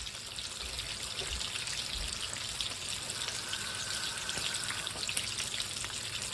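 Water pouring in a steady stream for several seconds, being added to a pot of chicken rice soup on high heat. A faint high tone joins about halfway through.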